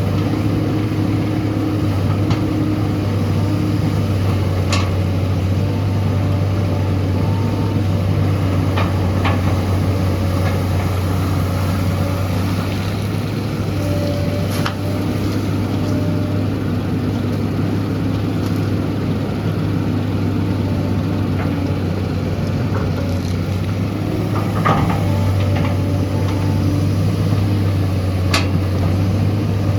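SANY excavator's diesel engine running steadily with a deep hum, and a wavering higher whine over it. Several sharp knocks ring out at irregular intervals.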